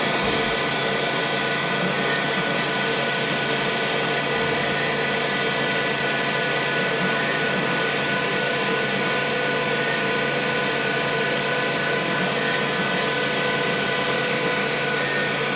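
CNC vertical machining centre running a machining job: a steady mechanical whir with a spindle whine made of several fixed pitches over a constant hiss, unchanging throughout.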